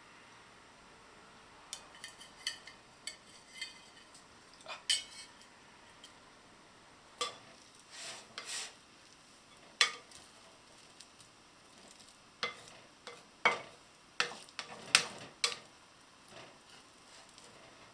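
Kitchen utensils clinking and knocking against dishes and pans, in a scattering of short separate strikes, some with a light ringing note.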